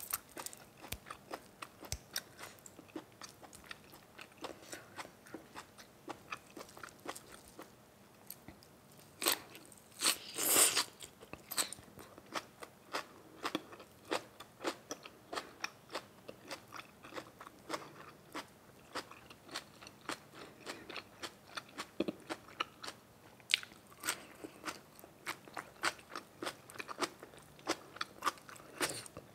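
A person chewing and crunching food close to the microphone, with many crisp irregular bites, and a louder burst of crunching about ten seconds in.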